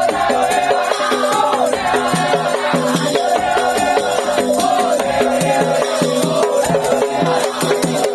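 Madurese tong-tong (daul) ensemble playing: a busy repeating percussion pattern with rattling shakers, under a wavering high melody line.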